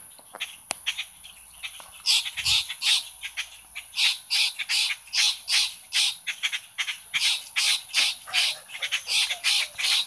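Adult birds giving harsh, rasping scolding calls over and over, a few times a second, starting about two seconds in. These are parent birds agitated that their fledgling has been caught.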